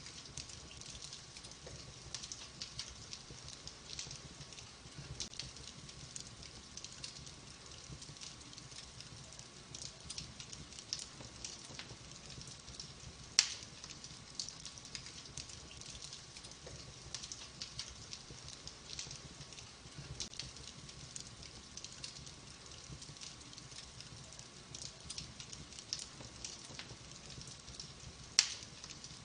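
Wood fire burning in a fireplace, crackling steadily with many small snaps, and two louder pops from the logs, one about halfway through and one near the end.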